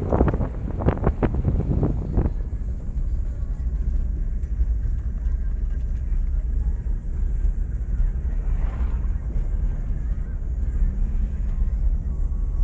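Steady low rumble of a car on the move, with a few short knocks in the first couple of seconds.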